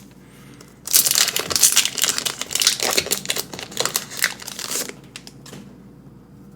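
Plastic and foil packaging of a Pokémon card booster pack crinkling and crushing as the pack is opened by hand, in a dense run of crackles that starts about a second in and dies down about five seconds in.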